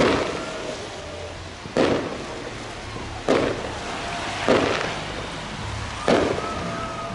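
Fireworks display: five sharp aerial shell bursts about a second and a half apart, each echoing briefly.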